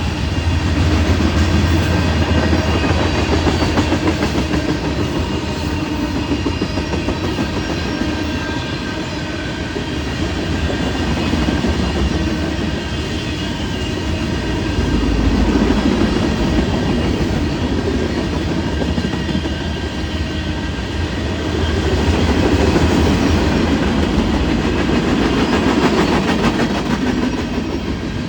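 Canadian National manifest freight train rolling past, its wheels running on the rails with many quick clicks. The level swells and eases gently every several seconds.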